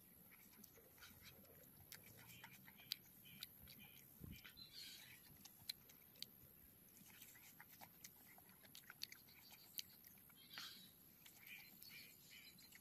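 Faint chewing and biting on charred roasted meat eaten off a skewer, with many sharp crunchy clicks scattered throughout.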